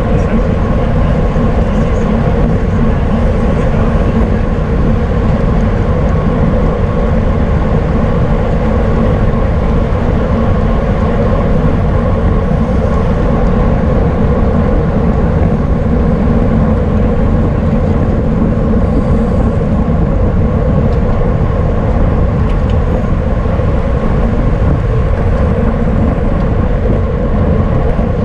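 Steady, loud wind rumble buffeting the microphone of a camera riding on a bicycle at race speed.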